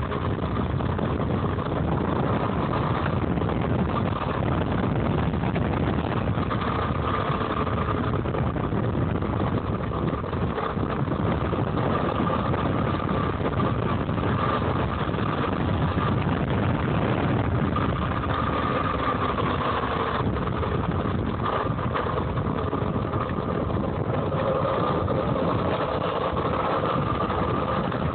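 Homemade DC electric dirt bike being ridden: a steady rush of wind and rolling noise, with a faint whine from the motor and drive that rises and falls with speed.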